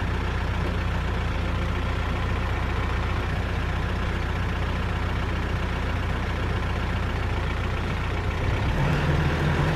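Engine idling steadily with a low hum, then speeding up and getting louder about eight and a half seconds in.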